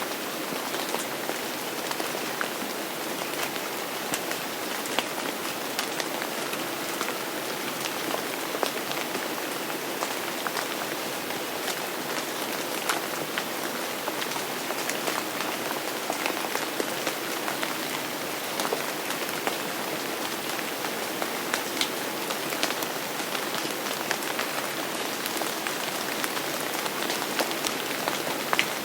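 Steady rain falling, with many individual drops striking close by as distinct sharp ticks over an even wash of rain noise.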